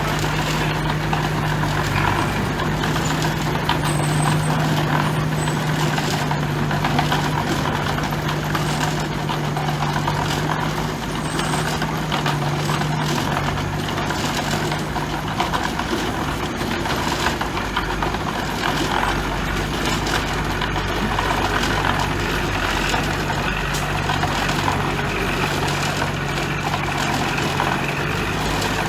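Heavy diesel engine of construction machinery running steadily, a constant engine drone with the noise of work over it.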